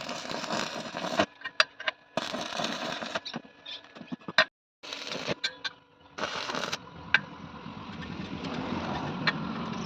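Metalworking noise in short blocks that start and stop abruptly, with scattered sharp clicks and ticks between them.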